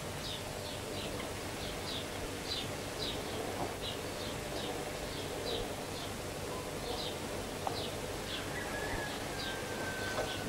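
A small bird chirping over and over, short high chirps two or three a second, over a steady background hiss.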